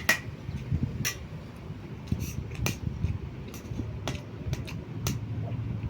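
Close-up eating sounds: chewing, with sharp clicks scattered irregularly through it.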